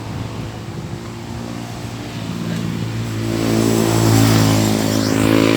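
A motor vehicle's engine passing close by, building up over the second half to its loudest a little after the middle and staying loud.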